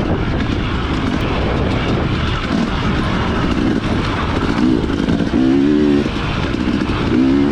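Dirt bike engine running under throttle, its note rising and falling, under a heavy rushing noise; the engine comes through most clearly about five and a half seconds in and again near the end.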